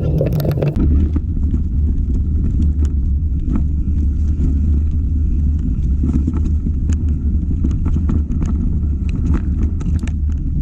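Steady low rumble with many scattered clicks and rattles. This is typical of riding a mountain bike on a forest trail: wind and trail vibration on the camera microphone, and the bike rattling over the ground.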